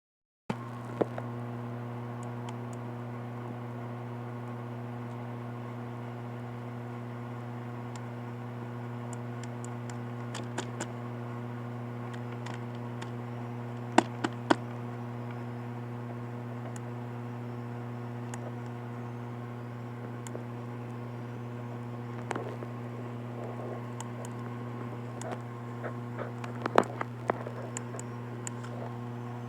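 A steady low electrical hum, with a handful of sharp clicks scattered through it: one about a second in, two close together about halfway, and a quick cluster near the end.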